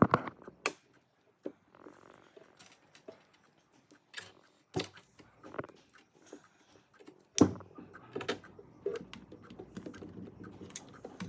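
Irregular light clicks and taps of small hard parts being handled, with a louder knock about seven seconds in and faint rustling after it.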